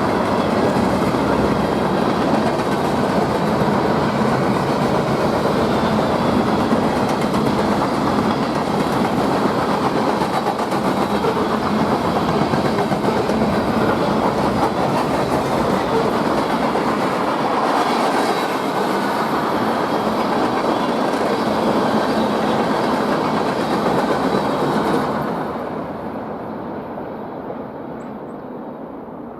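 A train's cars rolling past, with steady loud wheel-on-rail noise. The noise drops off about 25 seconds in and fades as the end of the train goes by.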